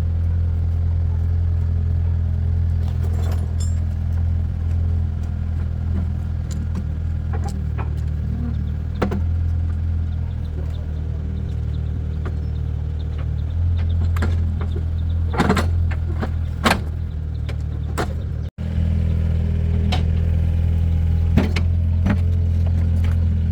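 An engine running steadily at idle with a deep, even hum. Sharp metallic clinks and knocks of metal parts or tools come now and then, the loudest around a quarter and two-thirds of the way through.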